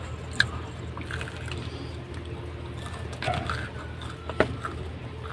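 Close-up chewing of crispy fried chicken katsu, with wet mouth sounds and two sharp clicks, one about half a second in and one near the end.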